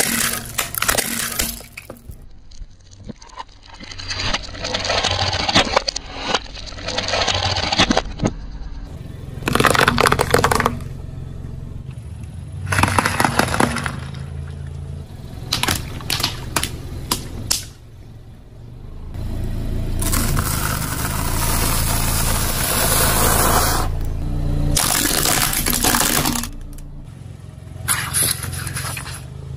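A string of separate crushing events, each cut off abruptly: a car's tyre rolling over objects and crushing them with cracking, crunching and breaking sounds, over a steady low engine hum.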